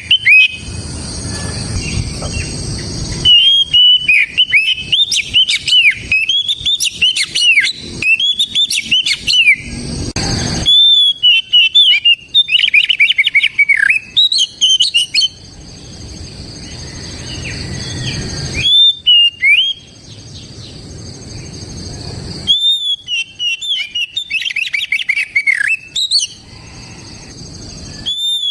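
Oriental magpie-robin (kacer) in full song: bursts of rapid, sliding whistled notes, broken by short pauses and repeated several times.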